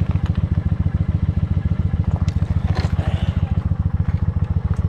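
Motorcycle engine running steadily with an even, fast low pulsing.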